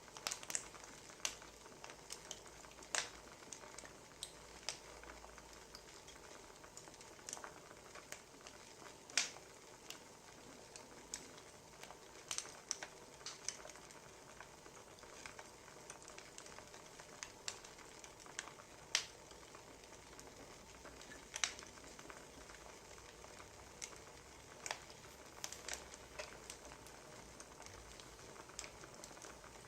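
Wood fire crackling: firewood logs give irregular sharp pops and snaps over a faint steady hiss.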